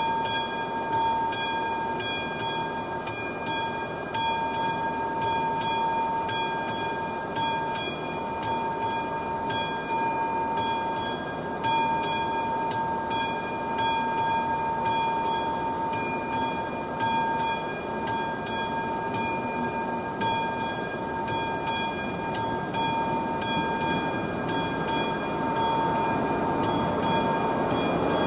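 Railway level crossing warning bell ringing in a fast, even rhythm over a steady high tone. Louder rumbling noise starts to build near the end.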